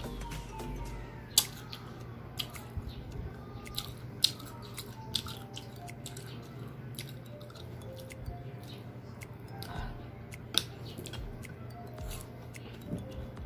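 Crisp green Indian mango being bitten and chewed close to the microphone: irregular sharp crunches and mouth clicks, a few of them much louder. Soft background music plays underneath.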